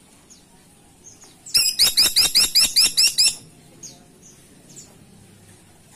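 Caladi tikotok woodpecker calling a rapid string of about ten sharp, high notes lasting just under two seconds. Faint chirps sound around it.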